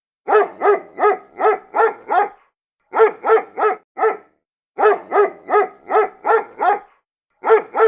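A dog barking in quick runs of several barks, about three a second, with short pauses between the runs.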